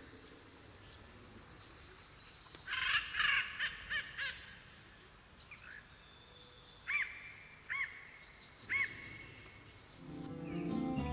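Short chirping calls of forest animals, a quick cluster of them followed by single calls spaced about a second apart, over a faint steady hiss. Music comes in near the end.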